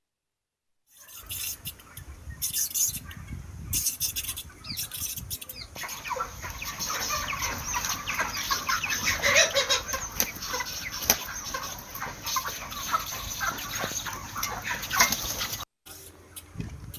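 A flock of chickens calling, many voices overlapping, the calls growing dense about six seconds in. The sound breaks off abruptly near the end.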